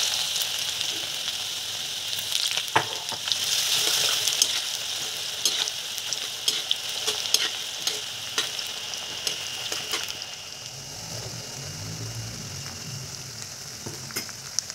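Julienned carrots sizzling in hot oil in a metal wok, with a metal spatula clicking and scraping against the pan as they are stirred. The sizzle eases off after about ten seconds.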